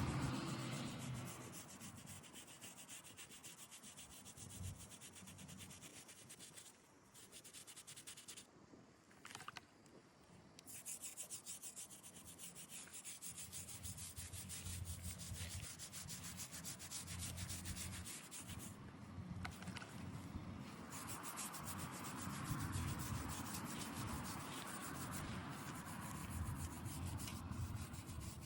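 Fast, steady rubbing strokes on stone, typical of a headstone being scrubbed or sanded by hand. The strokes break off briefly a few times near the middle.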